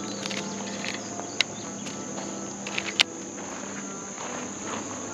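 Insects, crickets or similar, trilling in a steady high-pitched drone, with two sharp clicks about a second and a half and three seconds in.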